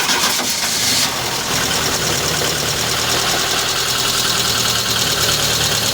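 Ford Del Rey's CHT four-cylinder engine idling steadily with its valve cover off, just after being started on a freshly fitted used timing chain. The sound is a little brighter for about the first second before settling.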